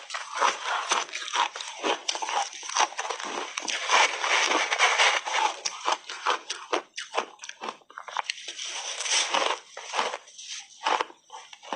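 Shaved ice being bitten and chewed close to the microphone: a dense, irregular run of crisp crunches, with brief lulls between mouthfuls.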